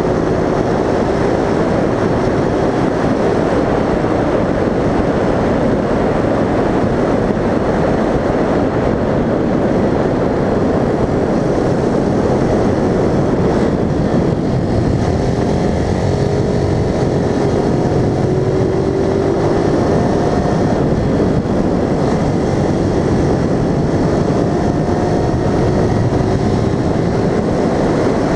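A vehicle being driven, with a steady rush of road and wind noise and an engine note whose pitch rises and falls several times.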